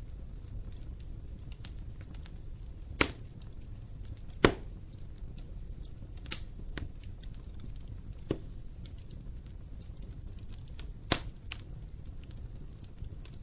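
Wood fire burning in an open fireplace: a low steady rumble of the flames with scattered light crackles and about five sharp pops, the loudest two a few seconds in.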